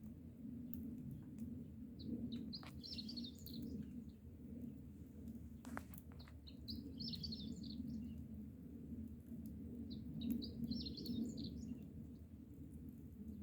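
Small birds chirping in short clustered bursts every three to four seconds, over a steady low rumble, with a couple of sharp snaps in between.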